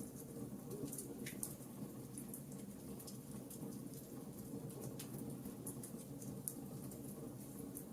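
Wood fire in a fireplace crackling: irregular small pops and snaps over a low, steady rush.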